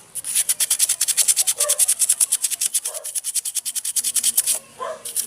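Stiff-bristled toothbrush scrubbing grime off engine-bay surfaces in quick back-and-forth strokes, about nine a second. The strokes stop briefly near the end, then start again.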